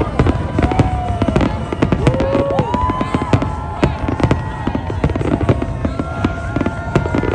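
Aerial fireworks display: many rapid, overlapping bangs from bursting shells, several a second, over a constant low rumble.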